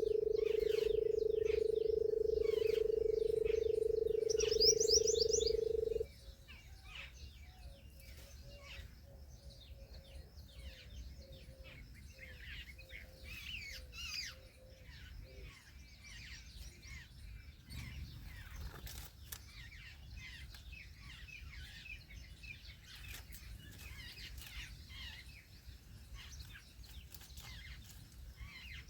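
Many small birds chirping and calling throughout, with a quick run of high rising notes about five seconds in. A loud steady drone runs under them for the first six seconds and cuts off suddenly.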